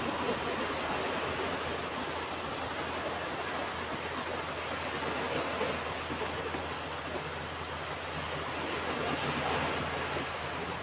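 Ocean surf washing onto a beach: a steady rush of waves with gentle swells in loudness.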